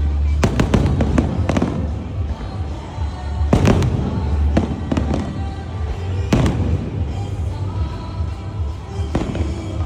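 Fireworks bursting in a series of sharp bangs, a quick cluster in the first two seconds and then single bangs every second or two, over a steady low rumble with music playing underneath.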